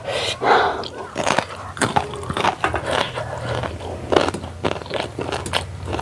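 Close-up chewing and biting of food, with irregular crunching and crackling bites.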